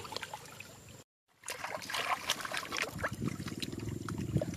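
Shallow water trickling and splashing in short, irregular spatters. The sound cuts out completely for a moment about a second in. A low steady hum joins from about three seconds in.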